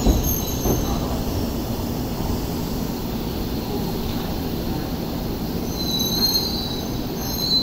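Electric commuter train running at a station platform: a steady low rumble, with thin high-pitched wheel squeal about six seconds in.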